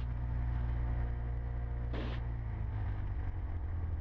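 Cessna 150's four-cylinder Continental O-200 engine running at run-up power, heard inside the cockpit; about two and a half seconds in its steady note breaks up and drops as the throttle comes back toward idle after the run-up checks.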